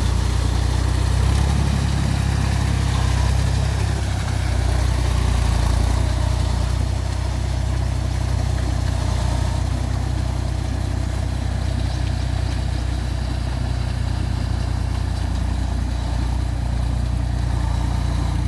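Mahindra 275 TU tractor's three-cylinder diesel engine running steadily with a low, even drone, dropping slightly in level about seven seconds in.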